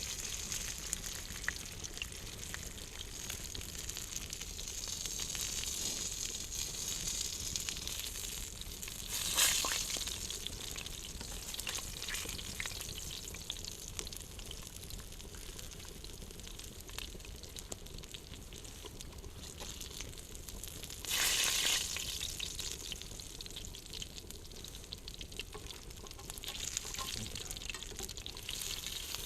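Food sizzling as it cooks over an open campfire, a steady hiss with fine crackling. Two louder hissing surges come about nine seconds in and again about twenty-one seconds in.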